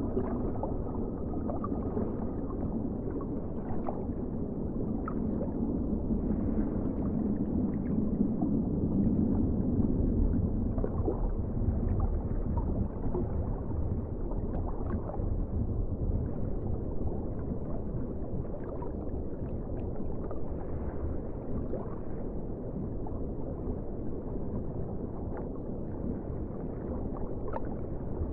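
Underwater ocean ambience: a steady, muffled low water rumble with faint scattered clicks, swelling a little about a third of the way in.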